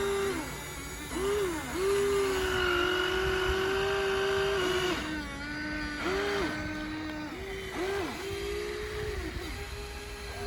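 Electric gear motors of radio-controlled toy construction machines whining, starting and stopping and stepping up and down in pitch every second or so as the controls are worked.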